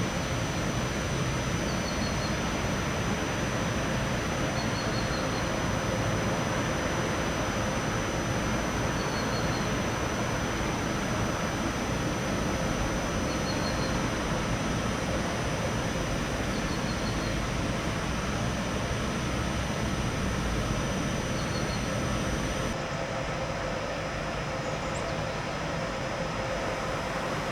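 Train running through the station: a steady, even rumble with a few steady whining tones over it.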